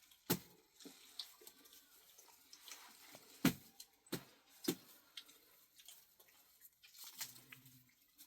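A handful of irregular sharp knocks and clicks, the loudest about three and a half seconds in, over faint background noise, with a brief low hum near the end.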